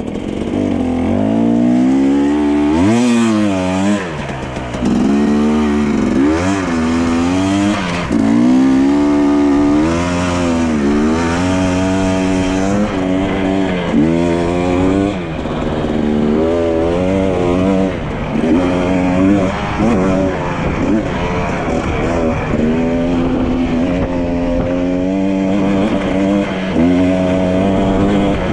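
Dirt bike engine under way, the revs climbing and dropping again and again as the throttle is worked and the gears change, for most of the ride about every one to two seconds.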